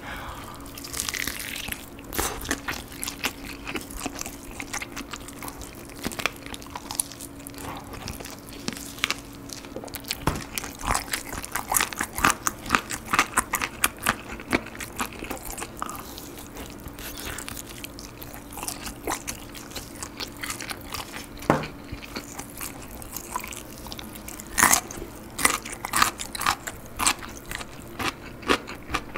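Close-miked biting and chewing of a salt-grilled chicken drumstick, with many short sharp mouth clicks and smacks at irregular intervals.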